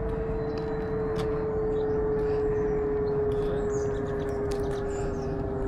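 Outdoor ambience: a steady droning hum that sinks very slowly in pitch over a low rumble, with scattered short bird chirps.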